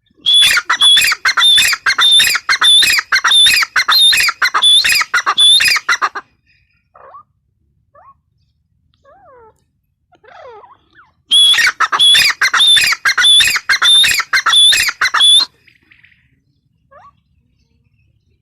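Grey francolin calling: a long run of loud, harsh, rapidly repeated notes, a pause with a few faint soft notes, then a second loud run of the same calls.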